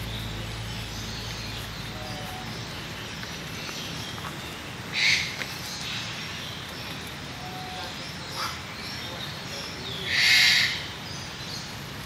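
Two harsh, hiss-like bird calls, a short one about five seconds in and a longer one about ten seconds in, over faint chirps and an outdoor background hiss.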